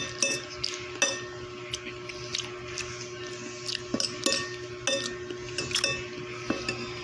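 Cutlery clinking and scraping against a plate while eating, a dozen or so short clinks scattered irregularly, over a steady low hum.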